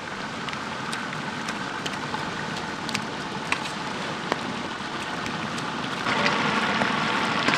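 Chicken pieces frying in oil in a large metal pot: a steady sizzle with scattered faint clicks. About six seconds in the sizzle grows louder as handfuls of pounded green masala drop onto the hot chicken.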